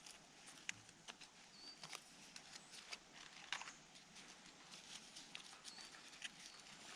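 Near-quiet forest with faint scattered clicks and crackles and two brief high chirps, one early and one late, like a small bird calling.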